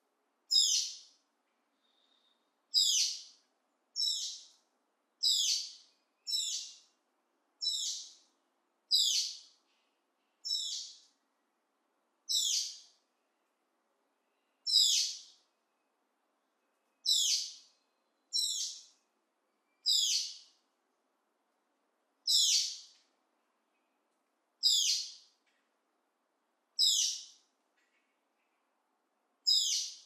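A bird repeating one short, sharp, high-pitched call, about seventeen times at irregular gaps of one to two seconds.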